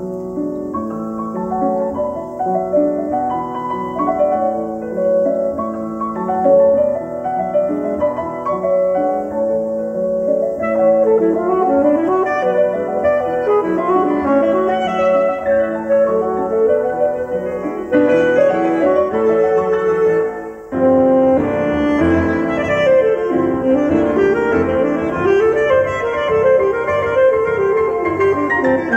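Instrumental music with piano played back through a stereo receiver and loudspeakers, with a brief drop about 21 seconds in, after which it comes back fuller, with more bass.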